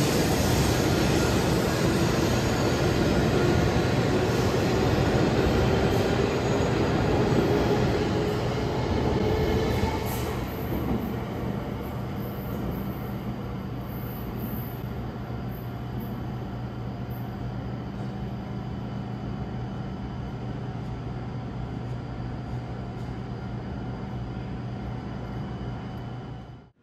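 E7 series Shinkansen train pulling out and accelerating away, a whine from its drive rising in pitch under the running noise. At about ten seconds the noise drops off sharply, leaving a quieter steady low hum.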